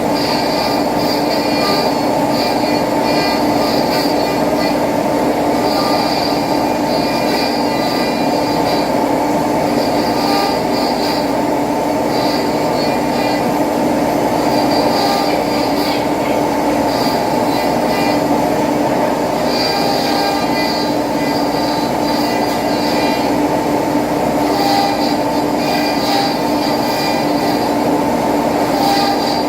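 CNC machine running a job: a steady, loud motor noise with a constant hum, and a high-pitched whine that comes and goes every few seconds as the axes move.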